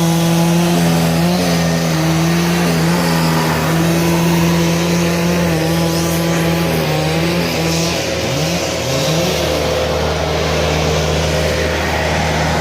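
Engine of heavy equipment loading logs, running steadily under load. Its pitch steps up and down several times and briefly rises and falls about eight to nine seconds in as the machine works.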